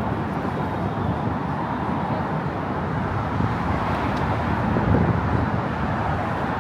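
Steady road traffic noise from cars on the bridge roadway, swelling slightly about five seconds in.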